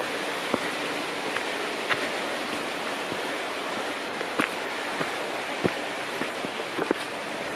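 Steady rush of running water in the woods, with scattered short, irregular ticks over it.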